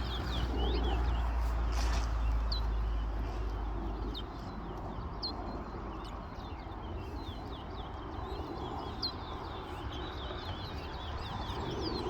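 Two caged songbirds competing in a song race, singing rapid runs of short, high chirping notes. There is a low rumble in the first few seconds.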